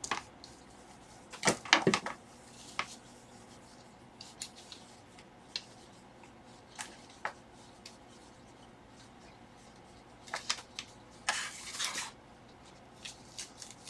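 Plastic pry card scraping and clicking along the edge of a tablet screen as it cuts through the adhesive: scattered sharp clicks and short scrapes, a cluster about a second and a half in and a longer rasping scrape near the end.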